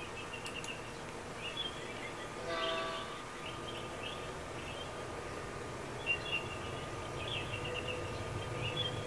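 Small birds chirping in short, repeated bursts over a steady hum. A brief pitched tone sounds about two and a half seconds in, and a low rumble builds near the end.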